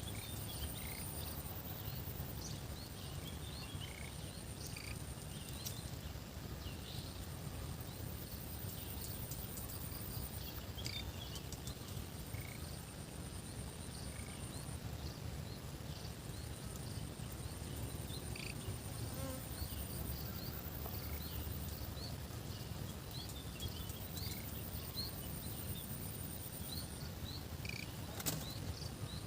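Insects trilling at a very high pitch in steady stretches of several seconds that stop and start, over a low steady rumble, with scattered short chirps.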